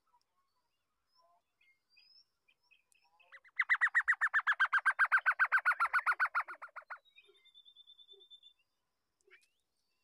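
A bird at the nest giving a rapid run of evenly repeated chattering notes, about ten a second for some three seconds, starting a few seconds in. A fainter, thin, high trill follows right after, and there are a few scattered faint chirps.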